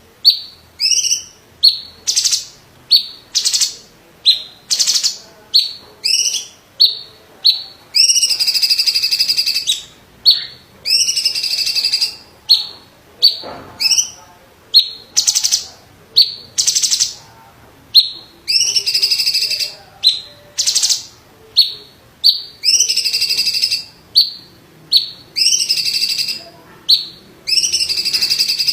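Cucak ijo (greater green leafbird, 'cungkok' type) singing loudly in sharp, short shrill notes about one a second. These alternate every few seconds with harsher buzzy phrases of about a second each.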